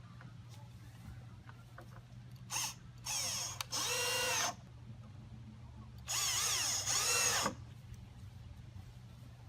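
Power drill running in three bursts while building with scrap pallet wood: a quick blip, then two runs of about a second and a half each, the motor's pitch dipping and rising within each run.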